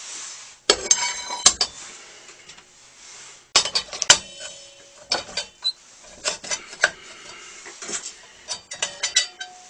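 Metal clinks and knocks with brief ringing as a carbide-tipped circular saw blade and the sharpening machine's fittings are handled and set. Louder knocks come about a second in and again around three and a half to four seconds, followed by a run of lighter clicks and taps.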